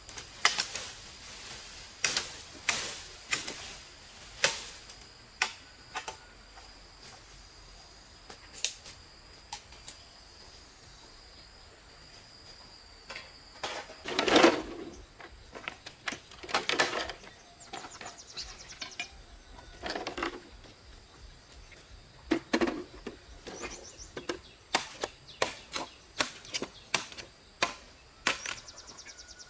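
Irregular sharp knocks and taps, sometimes several a second, with a louder, duller knock about halfway through. A faint, steady, high insect whine runs behind them.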